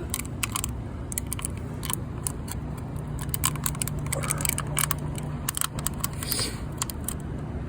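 Irregular light clicking and jingling, like small metal parts or keys being handled, over a steady low hum.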